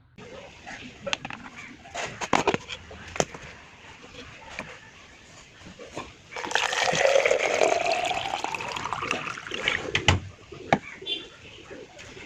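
A few clicks and knocks, then a loud hissing rush of compressed air for about three and a half seconds, a tone inside it dipping and rising, from the restored diaphragm air compressor's output.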